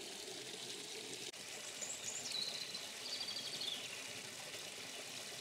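A songbird calls a short phrase about two seconds in, a high falling note followed by a quick trill that drops away, over a steady rushing noise like running water.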